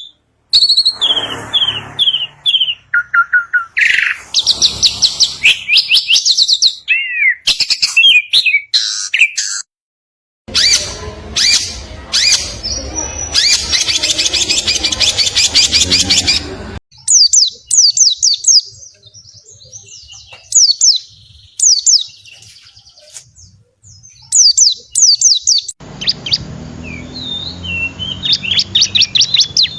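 Songbirds singing fast chattering song: trills, rapidly repeated notes and sweeping whistled phrases. The recording changes abruptly a few times, as separate recordings are spliced together.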